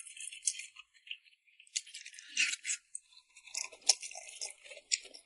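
Close-miked eating sounds: wet, crackly chewing of rice noodles in red chili oil, with irregular sharp clicks.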